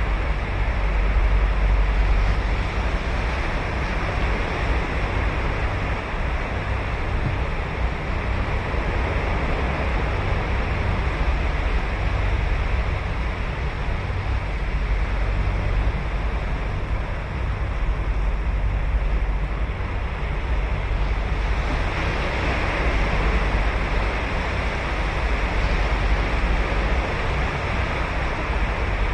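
Ocean waves breaking and washing on a sandy beach in a steady surf roar, with wind noise on the microphone.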